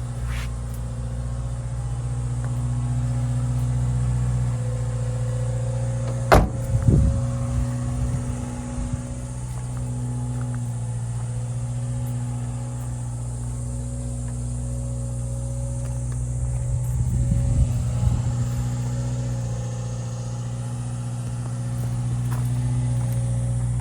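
Subaru Sambar kei truck's small four-cylinder engine idling steadily. A sharp knock comes about six seconds in, followed by a short clatter, and another clatter comes about seventeen seconds in.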